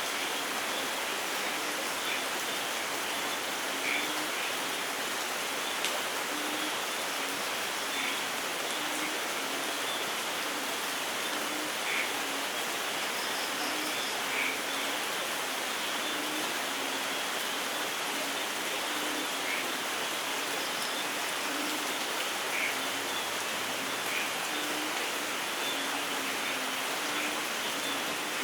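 Steady light rain falling, with scattered louder drops and a few faint, high bird chirps now and then.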